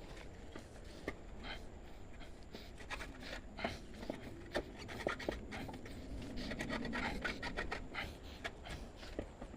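Irregular clicks, clinks and rubbing of hand tools and metal parts being handled, a few sharper knocks scattered through, with no engine running.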